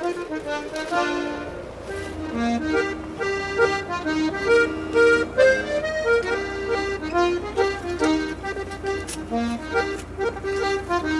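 Lively traditional Irish tune played on accordion, a quick melody of short notes.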